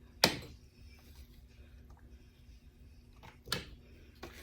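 A spoon knocking against a funnel and quart jar while minced garlic is spooned in: one sharp click about a quarter second in, then a few lighter knocks around three and a half seconds in and near the end.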